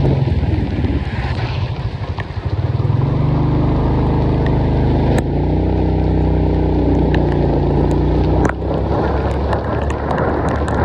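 A motor vehicle's engine running steadily, its pitch and level changing abruptly a few times, with occasional sharp ticks.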